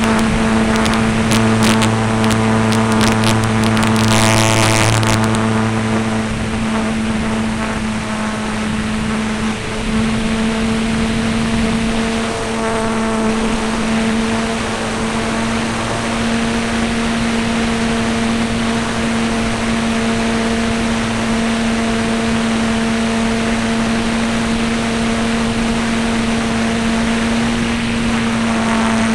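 A radio-controlled F3A aerobatic model airplane's motor and propeller running with a steady drone whose pitch holds nearly constant.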